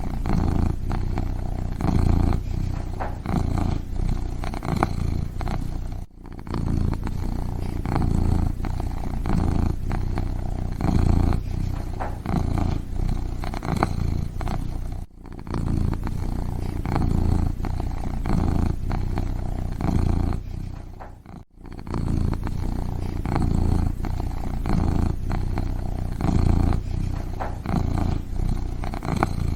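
Kitten purring, a steady low rumble that swells about once a second and breaks off briefly three times.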